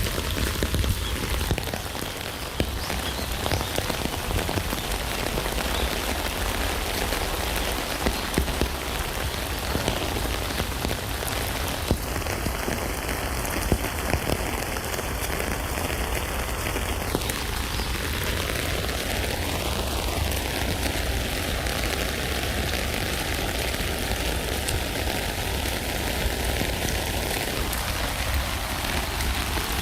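Steady rain pattering on a tent, a dense even hiss of drops with scattered sharper single drop hits.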